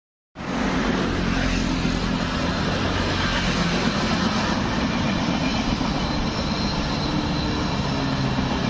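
A train running past on the tracks: a steady rumble of wheels on rail with a low motor hum, starting suddenly just after the beginning.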